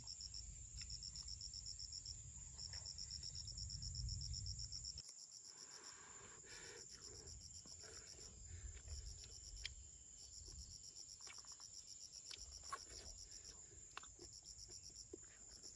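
Insects chirping, cricket-like: a steady high buzz with trains of rapid pulsed chirps that stop and start every second or two. A low rumble runs under it for the first five seconds, and there are scattered faint clicks.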